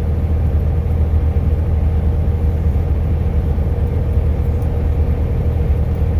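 Steady low rumble of a truck cruising, heard from inside the cab, with a faint steady hum over it.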